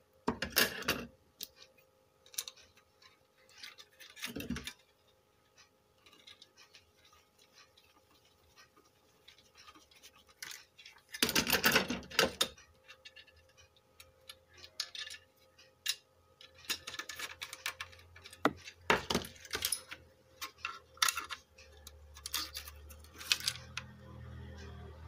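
Scattered clicks, taps and scraping of small tools and metal parts being handled while the amplifier IC and heatsink of a car stereo are refitted. The longest scraping comes about eleven seconds in, and a low hum comes up near the end.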